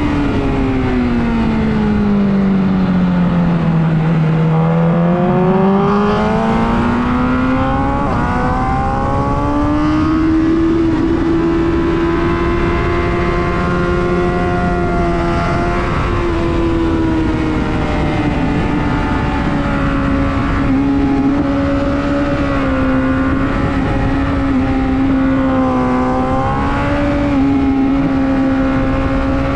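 Superbike engine at speed on a race track with a steady rush of wind noise. The revs fall over the first few seconds, climb back about five seconds in, then hold high with a few slight dips.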